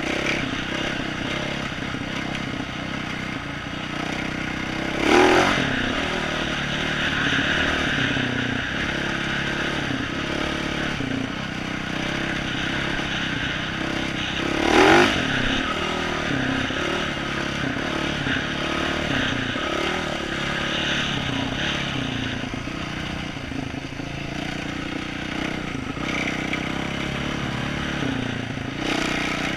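Yamaha YZ450F single-cylinder four-stroke dirt bike engine, through an aftermarket exhaust, running at low trail speed with the revs rising and falling. It surges louder twice, about five and fifteen seconds in.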